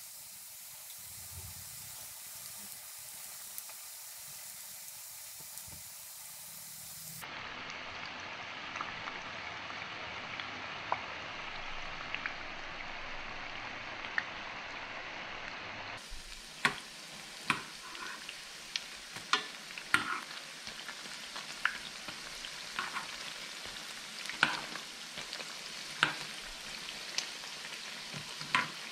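Tempura-battered squid rings shallow-frying in olive oil, a steady sizzle. In the later part, frequent sharp crackles and pops sound over the sizzle.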